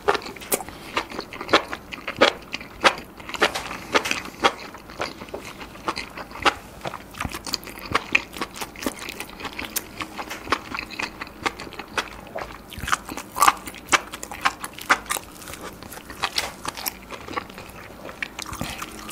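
Close-miked chewing of cheese-topped lobster meat, a steady run of many irregular mouth clicks.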